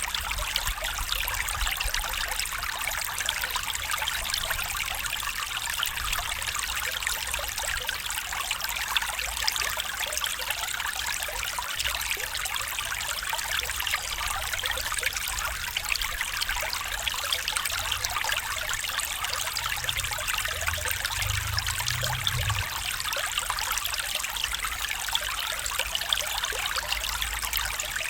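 Stream water trickling and babbling over stones, a steady rushing with no pauses, with a faint low rumble now and then underneath.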